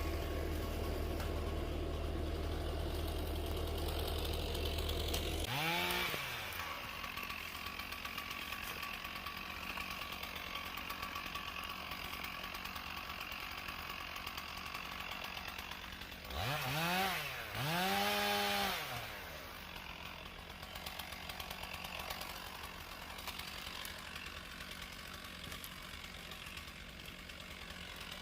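Two-stroke chainsaw idling, its engine revved up and back down once about six seconds in and twice more in quick succession later on. A deeper engine hum under it stops suddenly about five seconds in.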